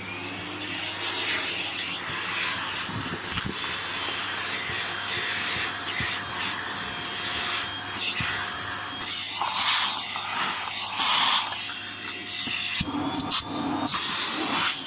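Vacuum cleaner switched on, its motor whine rising as it spins up. It then runs steadily while sucking leftover fluff out of a Roomba's dust bin, the suction noise shifting as the nozzle moves. It is switched off at the very end.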